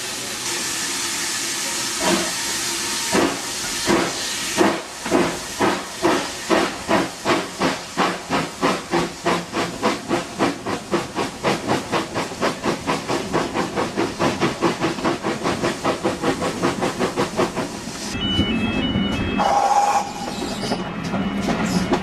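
Steam locomotive hissing, then getting under way with exhaust chuffs that quicken from about one a second to several a second. About eighteen seconds in the chuffing stops and a low running rumble of the train takes over.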